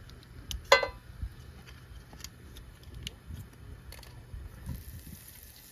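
Scattered light clicks and taps, with one short ringing clink about a second in, over a low steady hum.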